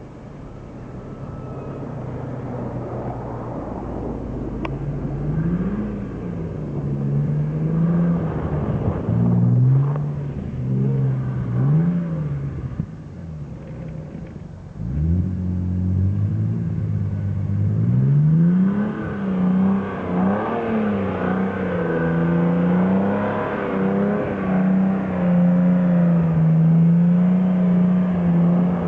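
Vacuum cleaner running, its motor pitch rising and falling again and again. It grows louder over the first few seconds, with a brief dip about fourteen seconds in.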